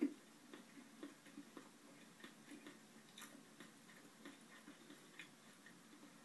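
Faint chewing and small mouth clicks of someone eating, irregular at about two a second, with one brief soft knock right at the start.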